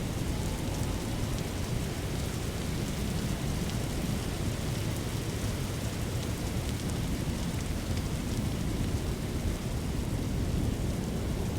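Storm noise: steady heavy rain over a deep, continuous rumble, with no separate thunderclaps.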